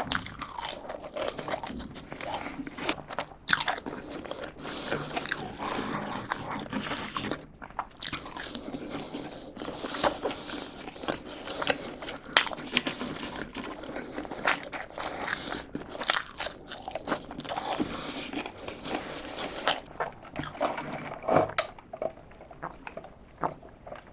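Close-miked chewing of french fries and a breaded fried nugget, with frequent sharp crunches.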